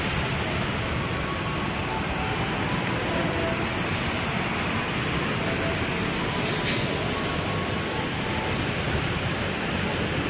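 Steady hiss of rain falling on the station's platform roofs and tracks.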